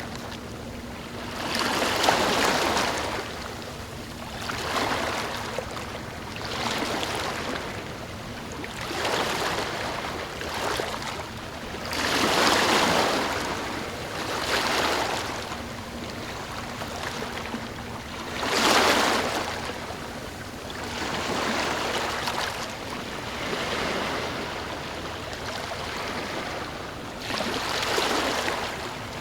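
Small ocean waves breaking and washing in, swelling and fading every two to three seconds, with the biggest surges about two, twelve and nineteen seconds in.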